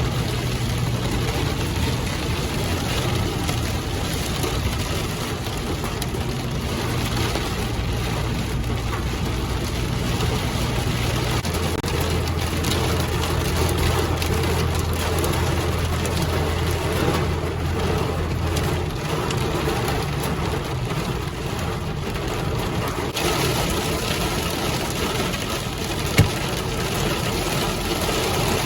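Car cabin noise while driving: a steady hiss of tyres on the road under a low engine hum that drops in pitch about a third of the way in. A single sharp click near the end.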